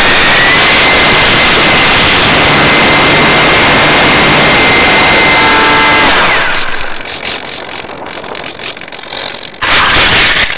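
RC model airplane's motor and propeller at high throttle, a loud steady whine over heavy rushing air noise on the onboard microphone. About six seconds in the throttle is cut and the whine falls away, leaving quieter air rush, then the power comes back on abruptly near the end.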